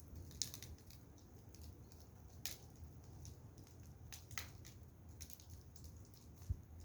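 Wood fire crackling: sparse, irregular snaps and pops, faint, over a low steady rumble.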